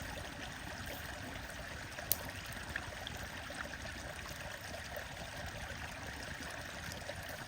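Stream water running steadily, with a sharp click about two seconds in and a smaller one shortly after.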